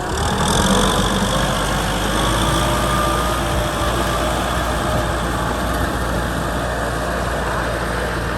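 Diesel engine of a Kubota M6040 SU tractor running steadily.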